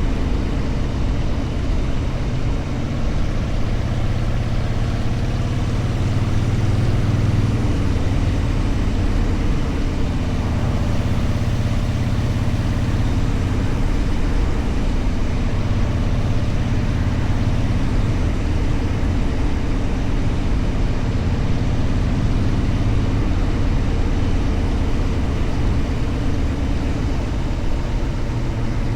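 Motorcycle engine running steadily while riding, a continuous low drone that rises and eases slightly without any sharp revs.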